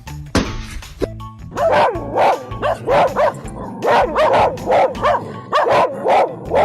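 A dog barking over and over, about two barks a second, starting about a second and a half in, over background music.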